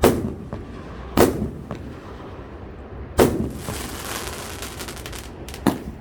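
Consumer firework cake firing: four sharp bangs spaced one to two seconds apart, with a steady hiss between them.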